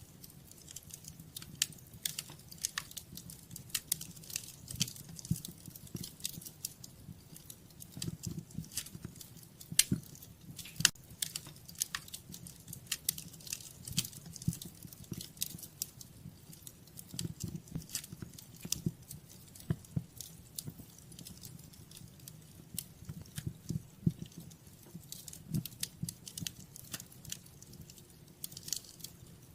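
Fireplace fire crackling, with irregular sharp pops of varying loudness, several a second, over a low steady rumble of the flames.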